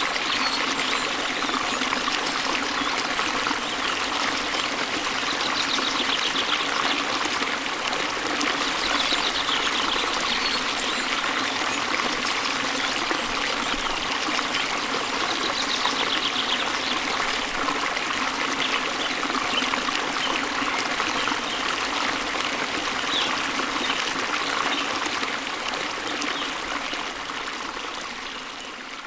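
Steady running water with a few brief bird trills over it; the sound fades out over the last few seconds.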